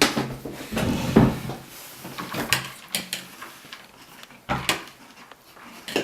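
A series of sharp knocks and clatters, irregularly spaced a second or so apart, from household objects being handled.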